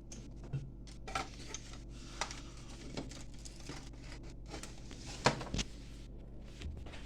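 Irregular light clicks and knocks of small hard parts being handled on a workbench, with one sharper knock a little past five seconds in, over a steady low hum.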